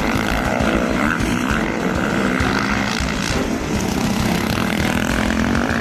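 A motor running steadily with an even drone, under a rumble of wind on the microphone.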